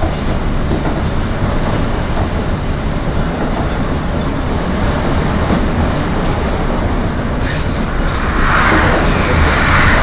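Moving train heard from inside a passenger carriage: a steady rumble and rush of wheels on the rails, growing louder with a rushing hiss about eight seconds in.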